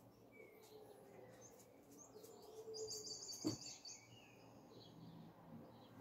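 Faint bird chirps, with one bird giving a fast, high trill of rapid repeated notes, about ten a second, for around a second near the middle. A single sharp click sounds during the trill.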